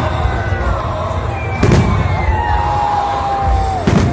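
Fireworks display: two sharp bangs of aerial shells bursting about two seconds apart, over a continuous low rumble.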